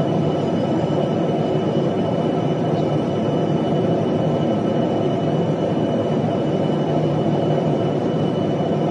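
Jet airliner engine noise: a steady rumble with a thin, constant high whine over it, unchanging in level.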